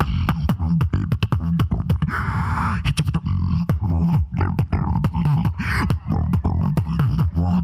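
Solo beatboxer performing a routine: rapid mouth-made clicks, snares and hi-hats over a continuous bass line, with a longer voiced effect about two seconds in.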